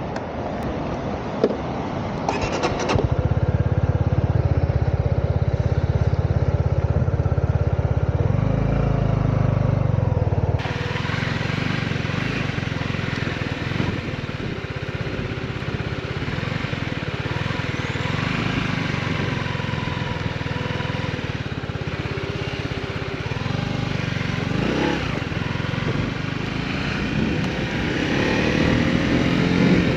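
Motorcycle engine running: a steady low engine note comes in suddenly about three seconds in, shifts around eight to ten seconds in, and then carries on with the bike under way.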